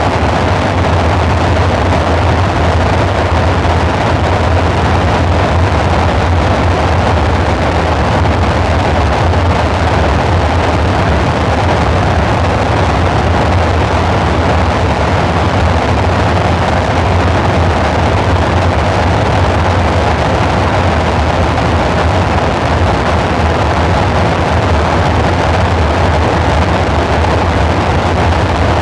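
Dark ambient synthesizer drone: a steady, unchanging low rumble with a noisy hiss layered above it.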